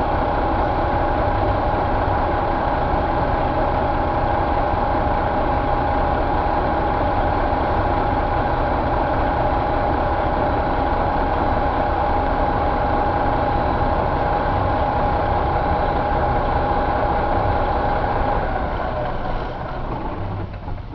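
Detroit Diesel Series 60 12.7-litre diesel engine running steadily at idle, with a steady high whine over the engine note. Near the end the whine stops and the engine sound quietens.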